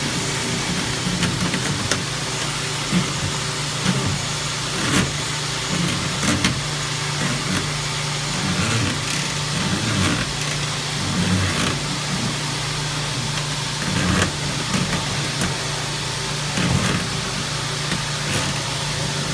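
Dryer vent cleaning machine running, its vacuum motor giving a steady hum and hiss while its spinning brush works inside a lint-clogged dryer duct. Irregular knocks and rattles come through all along.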